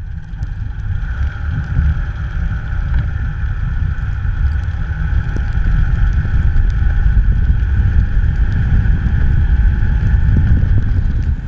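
A vehicle driving, heard as a loud, steady low rumble with a faint steady whine, building up over the first second or two.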